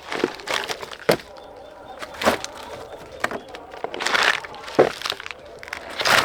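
Plant stems snapping as vegetables are picked by hand: about seven sharp cracks at irregular intervals.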